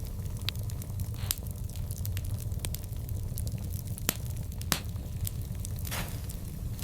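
Burning wood crackling, with irregular sharp pops over a steady low rumble; the loudest pops come a little past the middle.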